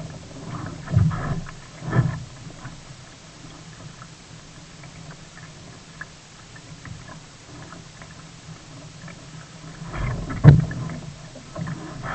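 Sea kayak on the water: irregular splashes and knocks of water and paddle against the hull over a steady low rumble, with a few louder thuds, the loudest near the end.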